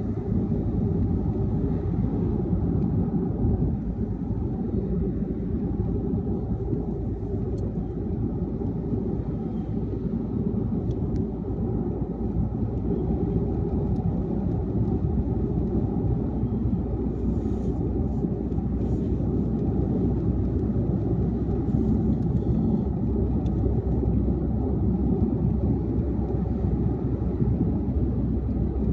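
Car driving at highway speed: a steady rumble of road and tyre noise.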